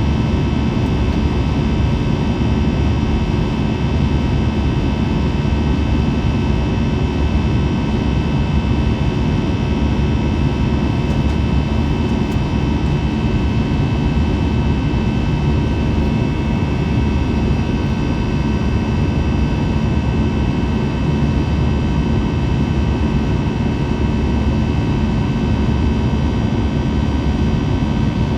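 Steady cabin noise of an Airbus A321 jet airliner heard from inside the cabin: engine and airflow rush, strongest in the low end, with several steady high whining tones from the engines on top. The sound holds level and unchanging throughout.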